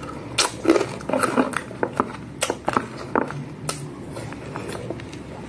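Close-up eating sounds: a quick run of wet clicks and smacks from chewing and lip-smacking on a mouthful of rice and fried dried fish eaten by hand. The clicks bunch up over the first three-quarters, then it goes quieter.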